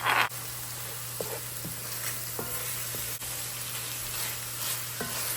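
Ground turkey sizzling steadily in a cast iron skillet, with a few faint scrapes and taps of stirring. A brief louder rasp cuts off just after the start.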